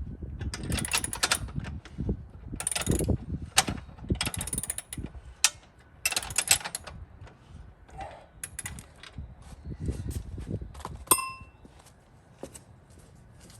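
Metal tools and parts clinking and clattering irregularly as they are handled, with one sharp ringing metallic clink about eleven seconds in.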